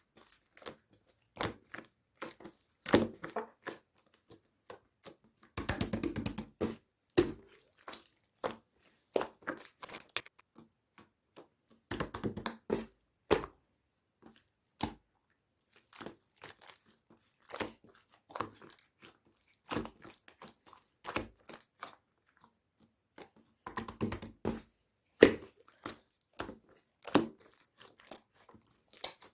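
Clear, chewy slime being handled: squished, stretched and pressed, giving scattered sharp pops and clicks, with three longer runs of rapid squishy crackling.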